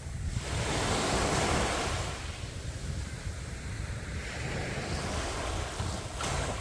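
Sea waves on a beach: a wave breaks and surges in about half a second in, then washes on more quietly, with wind on the microphone. A brief sharp sound comes near the end.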